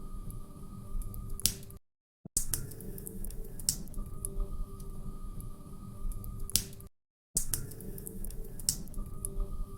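Log fire crackling in a fireplace: scattered sharp pops and snaps over a steady low rumble. The sound cuts out completely twice for a fraction of a second.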